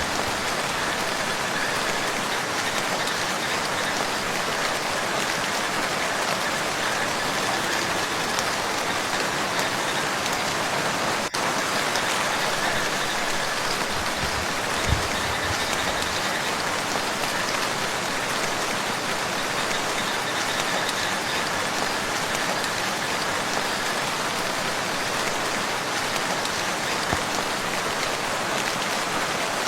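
Steady rain falling on a lake and its shore, an even hiss of many drops, with a brief low thump about halfway through.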